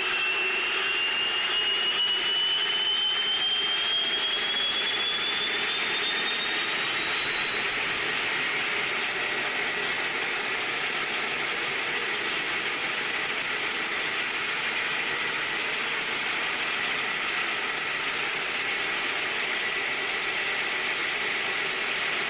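A turbine engine whining as it spools up: a single pitch rises smoothly for about nine seconds, then holds steady over a loud rushing noise.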